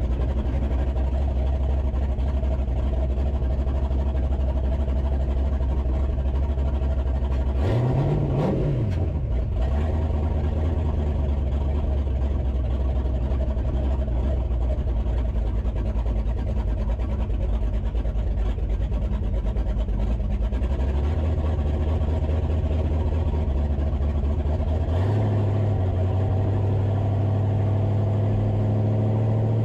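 Vehicle engine running steadily on the road, with a brief rise and fall in pitch about eight seconds in and a steadily rising pitch near the end as it speeds up.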